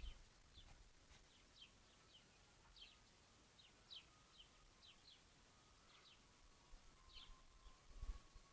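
Faint bird chirping: a steady run of very short, high chirps that fall in pitch, about two a second.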